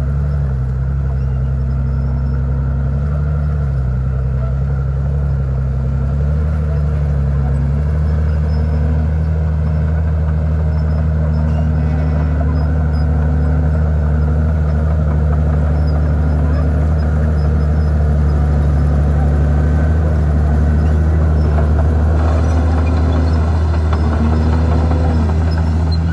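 Komatsu D51PX crawler bulldozer's diesel engine running steadily under working load, its pitch dipping and recovering a few times in the first several seconds before holding even. A faint wavering whine joins near the end.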